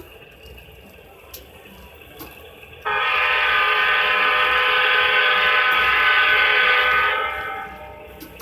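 Horn of an HO-scale model GE U-boat diesel locomotive, from its sound system: one long blast of several steady notes at once, starting suddenly about three seconds in and holding for about four seconds before fading, over the faint running of the model train.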